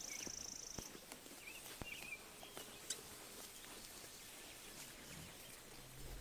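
Quiet sheep pasture ambience: scattered sharp ticks of sheep grazing in the grass and a few short bird chirps. A high, steady buzzing trill stops about a second in.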